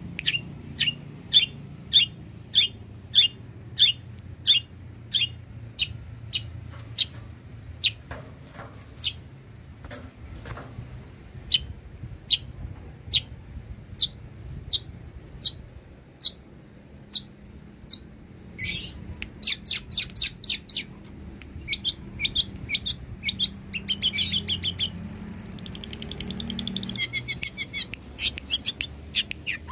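Long-tailed shrike (cendet) singing: a long run of sharp, evenly spaced high notes, one or two a second. After a short pause, a rising call leads into fast chattering phrases.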